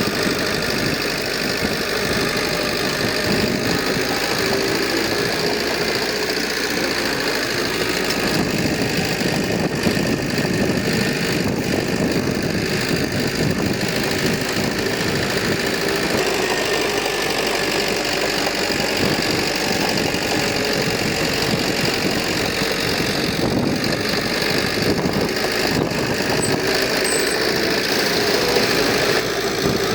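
Diesel engine of heavy earthmoving equipment running steadily, an even, unbroken engine drone.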